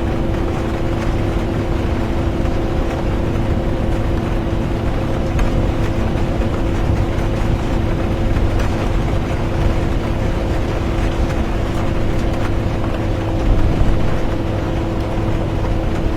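Steady interior noise of a bus under way, with engine and road drone, a constant hum and rain on the bus. It swells slightly for a moment near the end.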